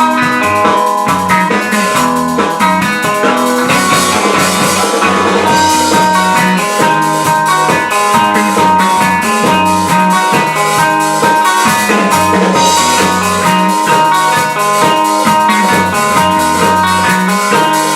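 Rock band playing an instrumental passage, with a drum kit keeping a steady beat under guitars.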